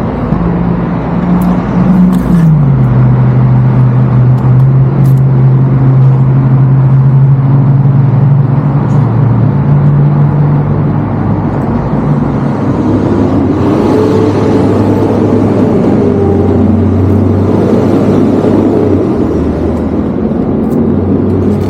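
Kawasaki Vulcan S 650 parallel-twin motorcycle engine running while riding. Its note drops about two seconds in, as on a gear change, and rises and falls again later.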